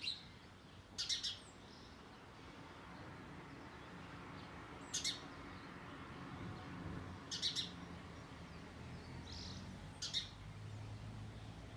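A pet bird giving short, sharp chirps, about four of them spaced a few seconds apart, over a faint low hum.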